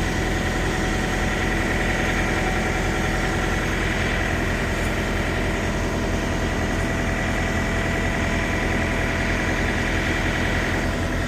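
Semi truck's diesel engine idling steadily, with a thin high-pitched whine over it that stops near the end.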